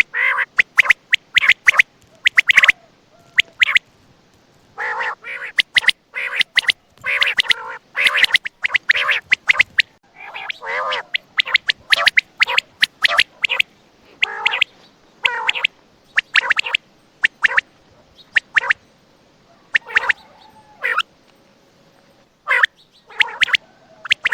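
Common quail calling over and over, in short runs of clipped notes with brief pauses between runs.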